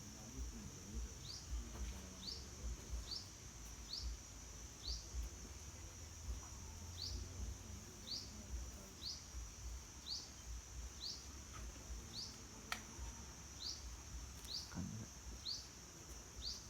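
A bird repeating short rising call notes, a little more than once a second, over a steady high-pitched drone of insects.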